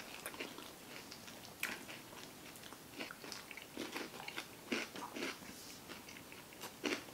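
Close-miked crunching and chewing of Flamin' Hot Cheetos: irregular crisp crunches, with sharper bites about one and a half, five and seven seconds in.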